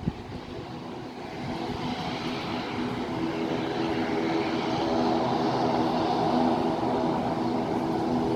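Airliner engines running, a steady hum of several tones that grows louder over the first few seconds and then holds.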